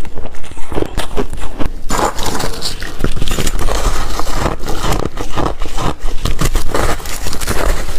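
A person chewing and crunching shaved ice close to the microphone, a dense run of irregular crackling crunches.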